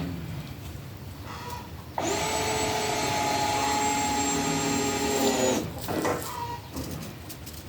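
Power drill running for about three and a half seconds, starting about two seconds in with a steady whine that sags in pitch as it winds down.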